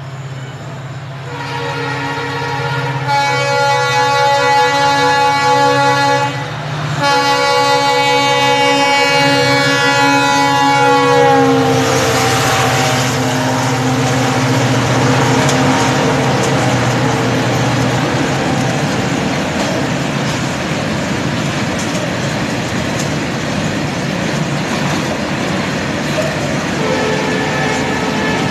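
Twin WDG4D diesel-electric locomotives sound their multi-tone horn while approaching at speed: two long blasts with a short break, the pitch dropping as the locomotives pass. After that the rake of BCNHL covered wagons rolls past with a loud, steady noise of wheels on rail.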